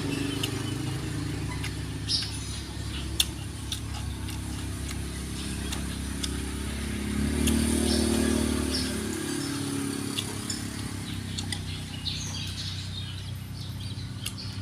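A motor engine running with a steady low hum that swells and then eases back about halfway through, with scattered clicks and faint bird chirps.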